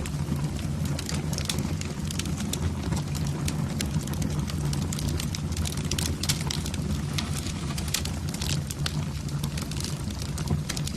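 Wood fire burning in a fireplace: constant small, irregular crackles and pops over a steady low rumble of the flames.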